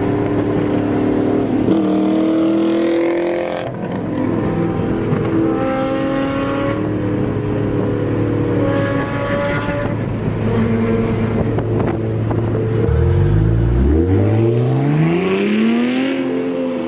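Sports car engines running and revving, their pitch shifting up and down; about 13 seconds in, one engine accelerates hard with a steadily rising pitch.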